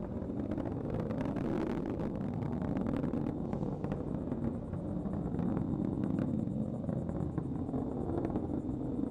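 Atlas V rocket with its solid rocket boosters burning in ascent: a steady low rumble with crackling running through it.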